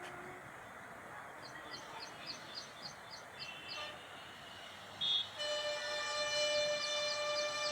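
A steady noisy background with a fast series of short high chirps, then a loud, steady, horn-like pitched tone that starts about five seconds in and holds.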